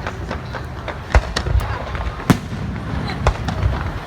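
Fireworks going off: a run of sharp bangs and crackles at irregular intervals, the two loudest about a second in and just past two seconds, over a steady low rumble.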